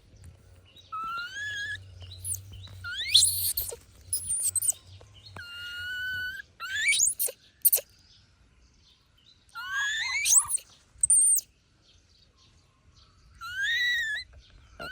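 A young monkey crying: repeated high-pitched wailing calls that slide up and down in pitch, coming in about eight short bouts with brief pauses between them.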